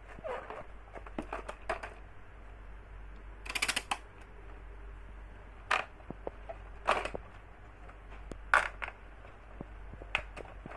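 Irregular clicks and knocks of plastic toy parts and packaging being handled, with a short rasping burst about three and a half seconds in, over a steady low hum.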